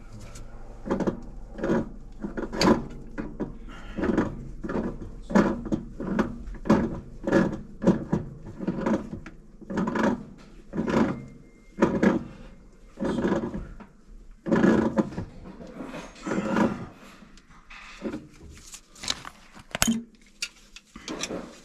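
A long, irregular series of knocks or thuds, roughly one or two a second, over a steady low hum.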